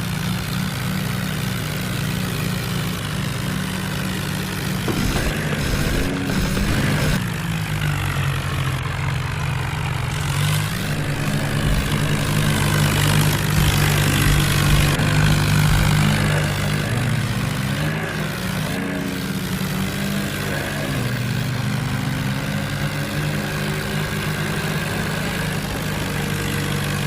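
Tractor diesel engines running under load, a steady low drone whose pitch shifts up and down several times as they rev.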